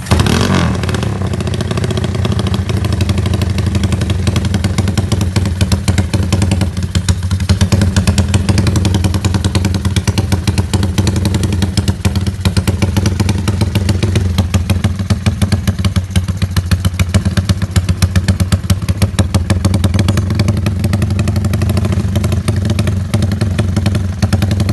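Honda GL single-cylinder four-stroke motorcycle engine running with a steady, rapid exhaust beat. It sits mostly at idle, with regular louder pulses.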